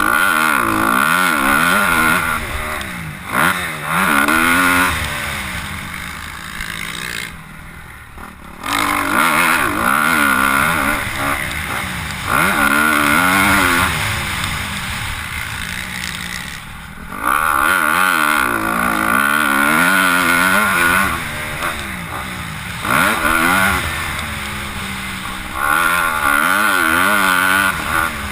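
Four-stroke motocross bikes on a dirt track, engines revving hard and easing off again and again, pitch climbing and dropping through gear changes as they pass at varying distances.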